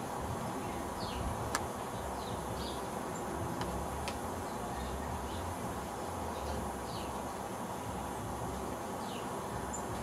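Scattered short, high bird chip notes, each sliding slightly downward, about eight in all, over a steady low outdoor rumble, with a sharp click about one and a half seconds in.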